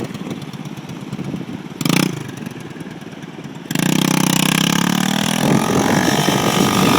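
Motorcycle engine idling, blipped once briefly about two seconds in. It is then revved hard and held high from about four seconds in, as for a burnout.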